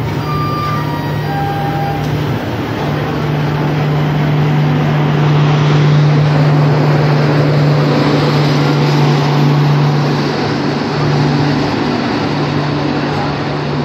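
Express train's coaches rolling past just below at departure speed: a steady rumble and rush of wheels with a constant low hum, swelling to its loudest mid-way and easing slightly near the end.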